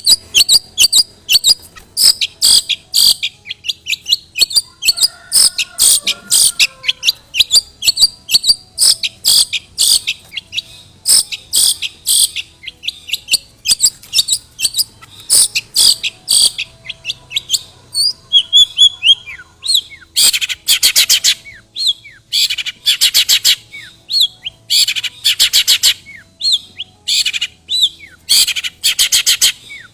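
Long-tailed shrike singing a fast run of sharp, high repeated chirps, mimicking other birds' calls, with faster rattling notes toward the end.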